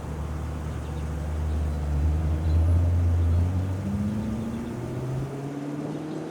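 A motor vehicle engine running low and growing louder toward the middle, then rising steadily in pitch through the second half as it accelerates.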